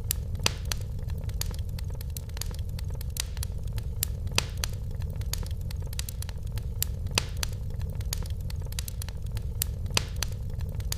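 Wood fire crackling in a fireplace: irregular sharp snaps and pops, a few of them louder, over a steady low rumble of the flames.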